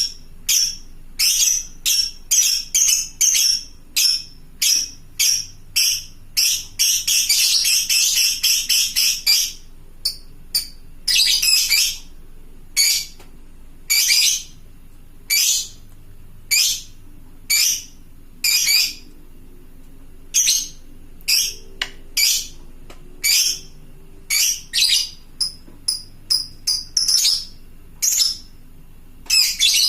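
Lovebird calling with rapid, shrill, high chirps repeated throughout. About seven seconds in, the chirps run together into one long unbroken chatter ("ngekek panjang") of a couple of seconds, with a shorter run a few seconds later. This is a call to other lovebirds.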